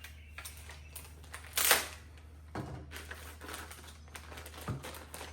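Foam and plastic packaging rustling and clicking as a new hand plane is handled in its box, with one louder rustle about a second and a half in. A steady low hum runs underneath.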